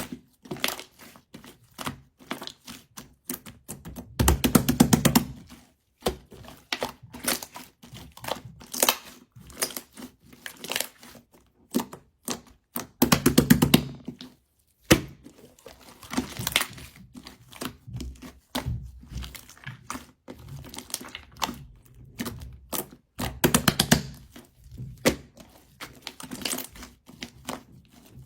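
Slime being pressed, stretched and squished by hand, giving irregular sharp clicks and pops. There are three denser bursts of rapid crackling, as trapped air is squeezed out.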